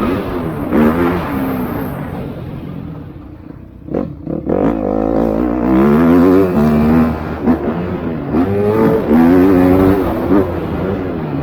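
Motocross bike engines revving hard and shifting during a race, the pitch rising and falling again and again. The sound fades briefly about three to four seconds in, then grows loud again as bikes come closer.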